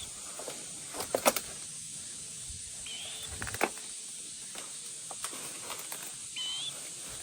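Footsteps rustling and crunching through deep grass, with a steady high-pitched hiss behind them and three short bird chirps spaced about three seconds apart.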